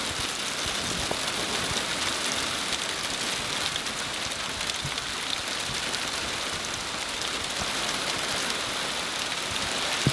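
Steady rain falling on surfaces, with a few scattered drips.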